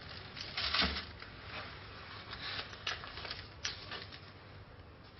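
Irregular soft rustling and handling noises, with a few light clicks or taps. The densest rustle comes just under a second in.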